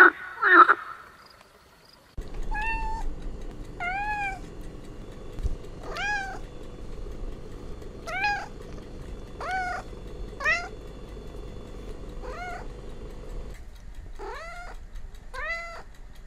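Kittens meowing again and again, about nine high meows that each rise and then fall in pitch, one to two seconds apart, over a steady low hum that stops near the end.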